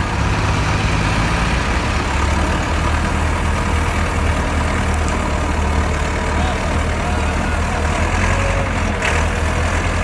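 Diesel tractor engine running steadily with a deep, even hum.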